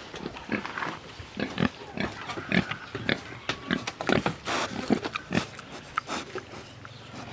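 Pigs grunting: many short, irregular grunts.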